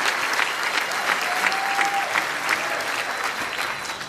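Large audience applauding, a dense patter of many hands clapping that thins slightly toward the end.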